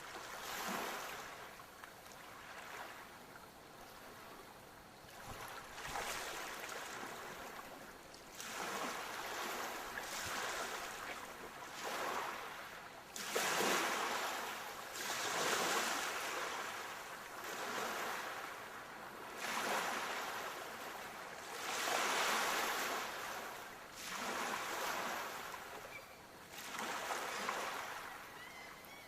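Sea waves breaking and washing on the shore, a hiss that swells and fades about every two seconds, the breakers growing stronger about halfway through.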